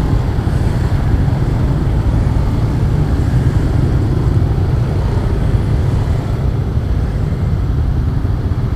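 Honda Astrea Star underbone motorcycle's small single-cylinder four-stroke engine running steadily while riding, heard as an even low rumble mixed with road and wind noise.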